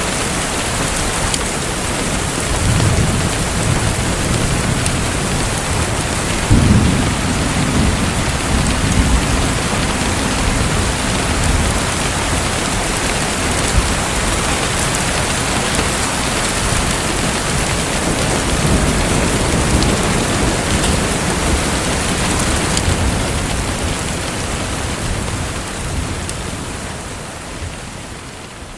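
Steady rain with low rolls of thunder a few times, fading out near the end.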